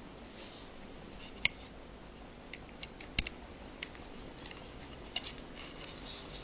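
Scattered small, sharp clicks and faint scraping of a small screwdriver working on tiny screws inside an iPhone 5, with the loudest clicks about one and a half and three seconds in.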